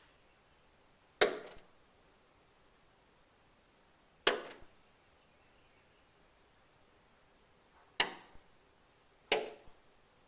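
A northern cardinal striking a window pane four times, a few seconds apart. Each strike is a sharp knock on the glass with a brief patter just after it.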